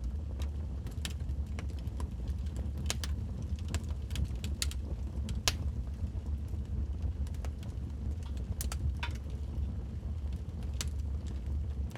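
Burning logs crackling in a fireplace: irregular sharp pops and snaps over a steady low rumble of the fire, with one louder pop about halfway through.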